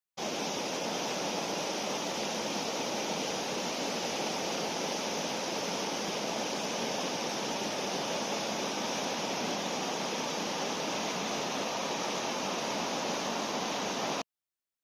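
Fast-flowing river water rushing steadily, an even noise without rhythm or pitch that cuts in abruptly and cuts off abruptly near the end.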